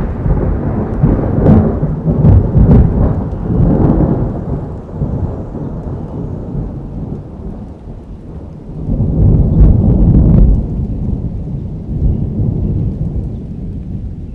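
Thunder rumbling over steady rain. A deep rumble dies away over the first few seconds, and another swells about nine seconds in and then fades.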